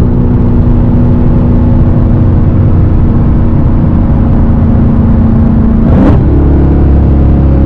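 Straight-piped Dodge Hellcat's supercharged 6.2-litre V8 running loud at steady revs. About six seconds in there is a short sharp burst and the engine note jumps briefly, then settles lower, like a gear change.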